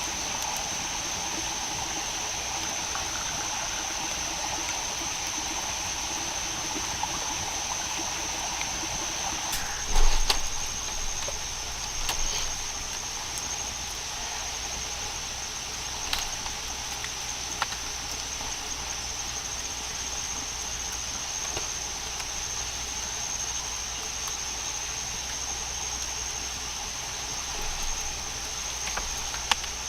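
Rainforest ambience: a steady high-pitched insect drone over a constant rushing noise, with one loud thump about ten seconds in and a few light knocks or clicks later.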